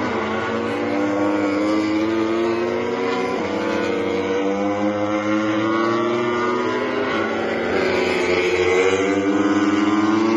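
MotoGP racing motorcycle engine at full throttle, accelerating up through the gears. Its pitch climbs steadily and drops twice at upshifts.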